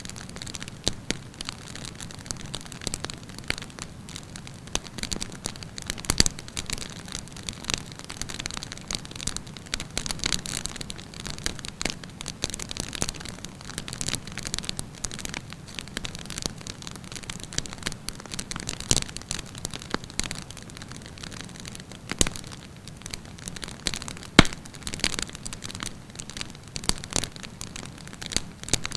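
Wood campfire burning with steady crackling and frequent sharp pops at irregular intervals, the loudest pops about six seconds in and near the end.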